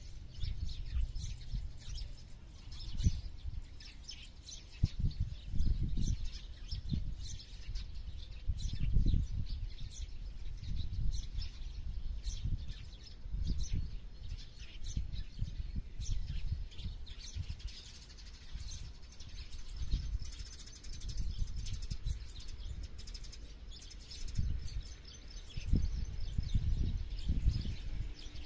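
Several small birds chirping and twittering continuously in short high calls, with irregular low rumbles swelling and fading underneath, the rumbles being the loudest moments.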